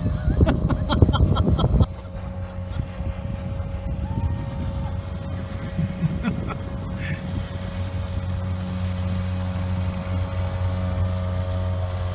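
A boat motor running steadily at an even pitch. It follows a loud, jumbled couple of seconds at the start.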